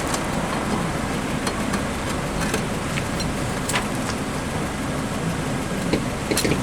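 Steady rushing background noise with a few faint, scattered clicks; no hammer blows or other strong knocks.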